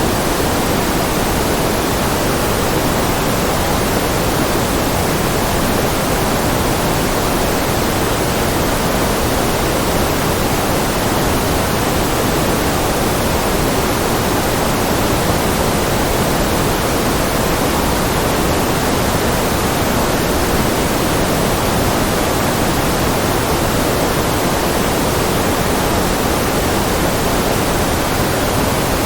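Steady generated white noise: an even, unchanging hiss with no breaks or variation.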